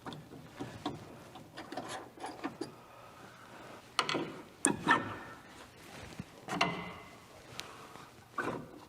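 Hand tools working on metal brake and axle hardware: scattered light clicks and rattles, with several louder clanks spread through the middle and near the end.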